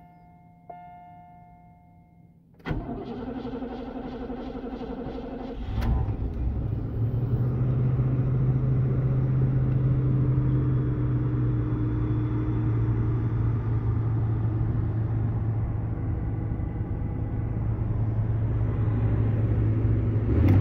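The key-reminder chime of a 1985 Oldsmobile Delta, the ding that sounds like a slot machine, rings out and fades. The starter then cranks the engine for about three seconds until it catches, and the engine settles into a steady idle.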